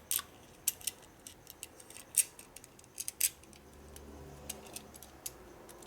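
Small steel washers and a short bolt clicking and clinking as they are handled and slipped on, a string of light, sharp metallic clicks at uneven intervals.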